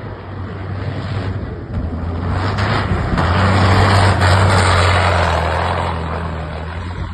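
Dakar rally race truck driving past: a steady low diesel engine drone with tyre and wind noise, swelling to its loudest about four seconds in and then fading as it moves away.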